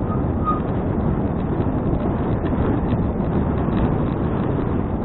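Wind rushing over the action camera's microphone while riding a bicycle, a steady heavy rumble with the tyres' road noise under it. Two short high chirps sound right at the start.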